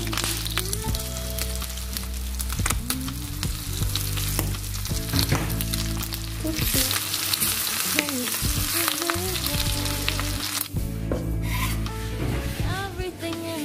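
Burger patties frying in shallow oil in a pan, a steady sizzle with frequent small pops. Background music plays over it.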